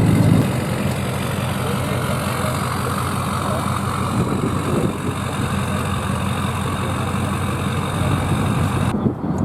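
Vehicle engine idling: a strong steady low hum that fades about half a second in, leaving a steady mix of engine rumble and hiss.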